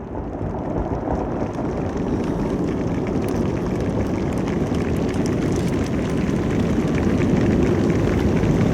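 A large crowd applauding and cheering as the fireworks show ends, a steady roar that swells louder, with more and more individual claps toward the end.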